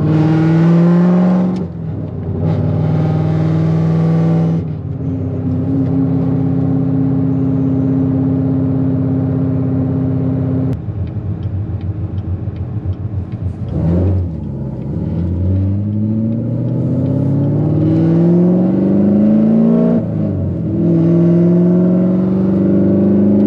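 The heavily cammed supercharged 6.2-litre LT4 V8 of a C7 Corvette Z06, heard from inside the cabin while driving. It climbs in pitch under acceleration, drops back about two seconds in, then holds a steady pitch for several seconds. Around the middle it falls to an uneven, choppy low-rpm lope, then pulls up again in two long rising runs with a drop in pitch between them.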